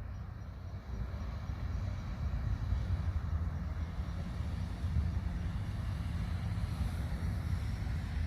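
Steady low rumbling noise with a faint hiss above it, without a clear beat or tone.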